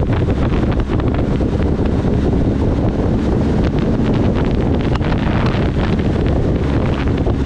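Heavy wind buffeting on the microphone of a moving motorcycle, with a steady low rumble underneath.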